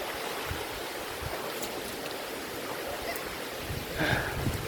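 Steady rushing of a waterfall pouring into its plunge pool, with a brief louder sound about four seconds in.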